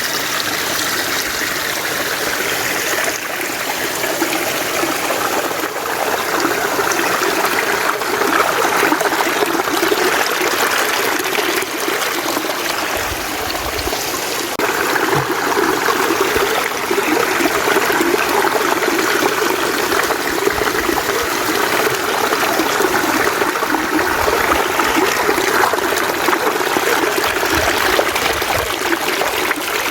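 Mountain stream water running steadily, becoming a little louder about halfway through.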